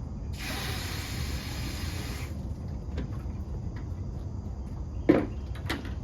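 A steady hiss lasting about two seconds, then two sharp knocks about half a second apart near the end, the first the louder.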